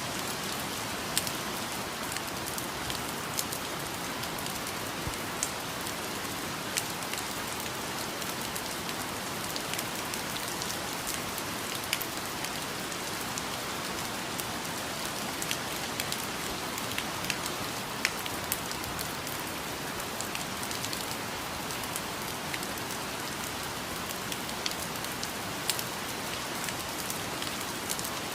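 Steady rain falling, an even hiss with many scattered individual drops striking close by.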